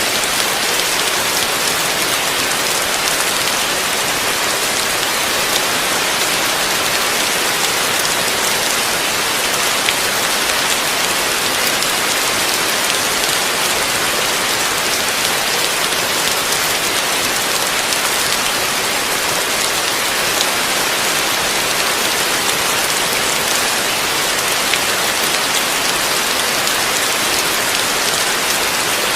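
Heavy rain falling steadily, a dense even hiss with occasional distinct drop ticks.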